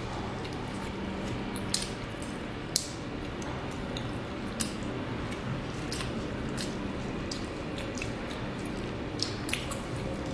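Close-up eating sounds: sticky glutinous rice dumplings (zongzi) being chewed with wet, squishy mouth noises and scattered sharp clicks, over a steady background hiss.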